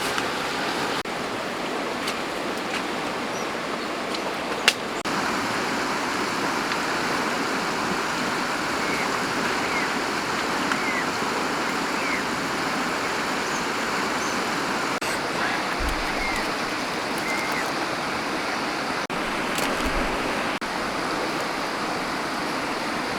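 Steady rush of a flowing stream, with one sharp click about five seconds in and a few faint short chirps.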